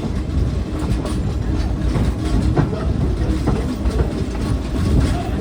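Passenger coaches of the Frisco steam train #14 rolling along the track, heard from aboard: a steady low rumble with the clickety-clack of wheels crossing rail joints and a few sharp knocks around the middle.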